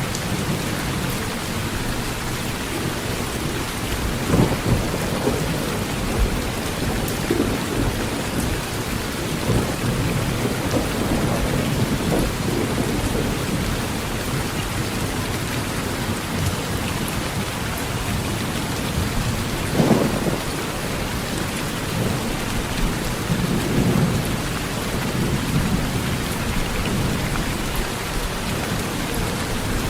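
Heavy rain falling steadily on a metal roof, with several short rumbles of thunder; the loudest comes about two-thirds of the way through.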